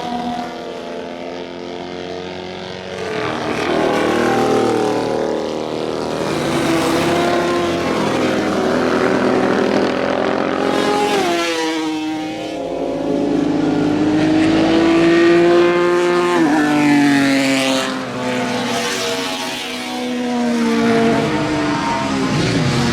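Motorcycles going past on a race circuit, several engines at once. Their pitch climbs as they rev up through the gears, then drops suddenly at each gear change and as each bike goes by.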